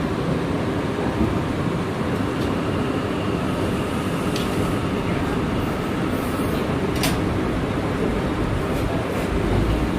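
Bombardier R179 subway car under way, heard from inside: a steady running noise of wheels on rail, with a few sharp clicks from the track.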